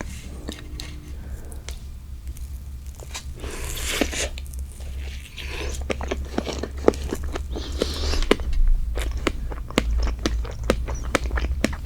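Close-miked eating: biting into and chewing the strawberry part of a cream cake, with many small wet clicks and smacks from the chewing in the second half.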